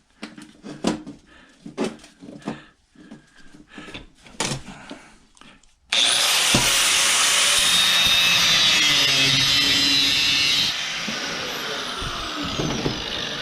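Metal parts clinking and knocking as they are handled. About six seconds in, an electric angle grinder starts with a rising whine and runs loudly for about five seconds, grinding through metal. It then drops off and winds down with a falling whine near the end.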